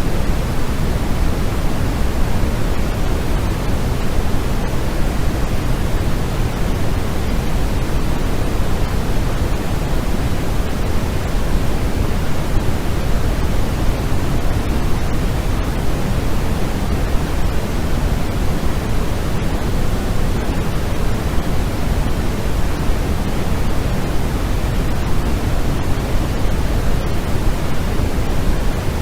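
Steady, unchanging electronic noise played as a sleep aid, weighted toward the low end like pink noise rather than a bright hiss.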